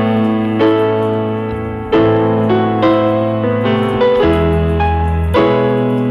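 Background music: a piano playing slow jazzy chords, struck every second or so over held low bass notes.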